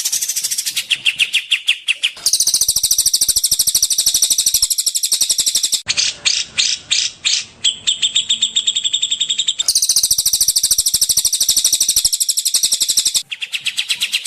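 Small songbirds singing fast, chattering trills of rapid repeated high notes, in an edited masteran (birdsong training) recording. The song changes abruptly several times as clips are spliced together, and a slower run of falling notes comes in the middle.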